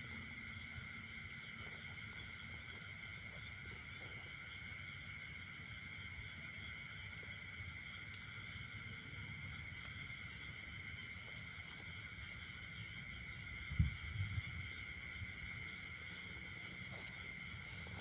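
A steady chorus of calling animals, several high trilling tones pulsing rapidly at once, with low rustling underneath and a single thump about fourteen seconds in.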